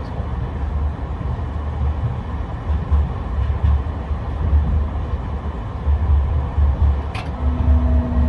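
A tram running along the rails, with a steady low rumble. Near the end there is a sharp click, and then a steady low hum sets in.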